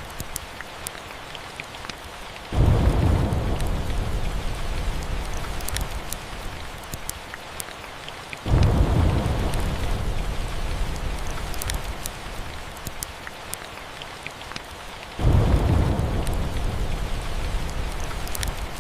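Steady rain with a fireplace crackling, broken by three deep thunder rumbles that start suddenly, about two and a half, eight and a half and fifteen seconds in, each dying away slowly over several seconds.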